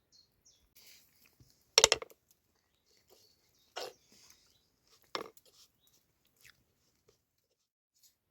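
A person eating close to the microphone: three short crunchy bites about two seconds apart, the first the loudest, with faint chewing between.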